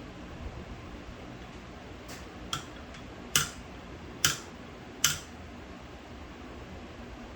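Sharp metallic clicks of small carburetor parts and hand tools being handled during disassembly: five clicks about a second apart, the last three loudest with a brief ring, over a steady background hiss.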